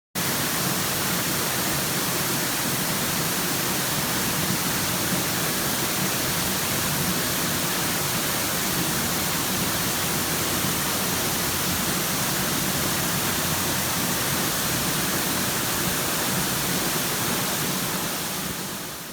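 Steady, even hiss of noise, like static or rushing water, that fades out near the end.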